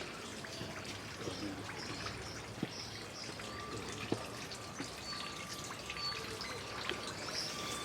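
Water trickling steadily, with small scattered drips.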